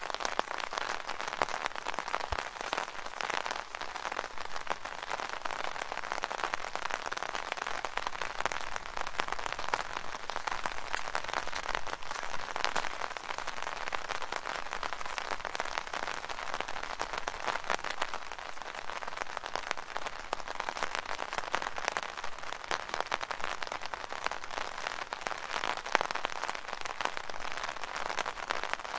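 Light rain falling on an umbrella: a steady, dense patter of many small drops.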